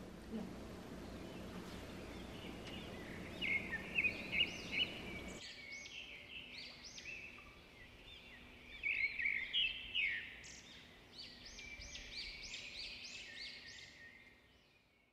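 Small birds chirping and singing in quick series of high chirps, loudest around four seconds in and again around nine to ten seconds. A low steady hum underneath cuts out about five seconds in.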